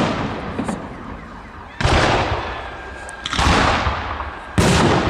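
Fireworks salute bursting overhead: three loud booms about a second and a half apart, each trailing off over a second or so.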